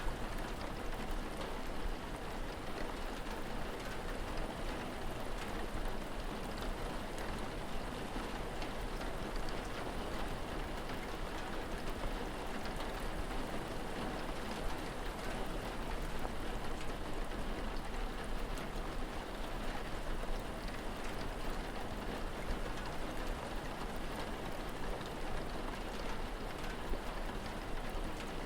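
Steady rain falling, with many small drop ticks through an even hiss, over a steady low rumble.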